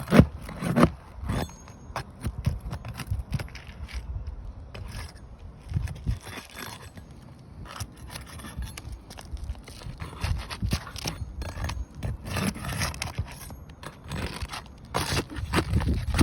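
Irregular scraping and scuffing with scattered knocks and low rumbling.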